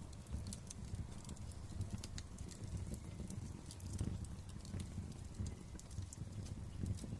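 Fire in a fireplace crackling: frequent sharp, irregular snaps and pops over a low, steady rumble of the flames.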